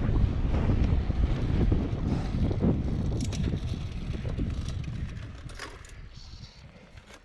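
Wind buffeting the camera microphone during a road bike ride: a low, rumbling gust noise that fades away gradually over several seconds, with a few faint clicks along the way.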